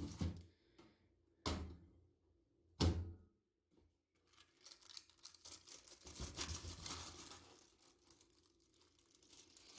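Three sharp knocks about a second and a half apart, then several seconds of paper or plastic wrapping crinkling and tearing as it is handled.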